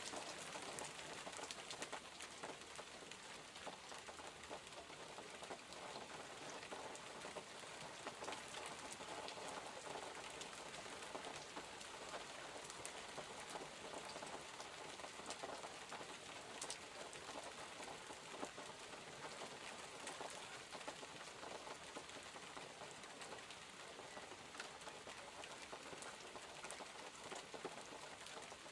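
Steady rainfall: an even hiss with many small drop ticks.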